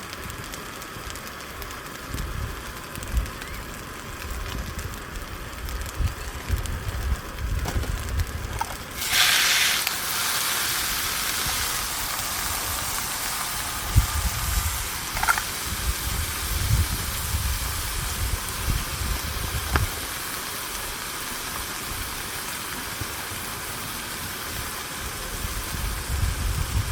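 A loud hiss starts suddenly about nine seconds in and carries on steadily, over uneven low rumbling gusts.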